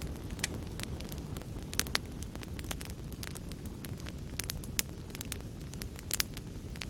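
Fire crackling in a fireplace: irregular sharp pops and snaps, a dozen or so, over a steady low rumble of burning.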